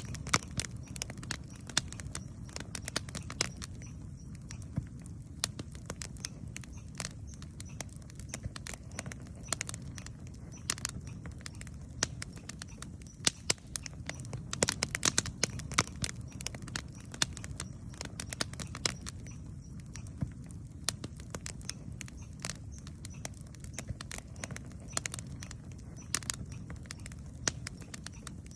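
Wood campfire crackling, with sharp irregular pops and snaps, some in quick clusters, over a steady low rumble of the burning fire.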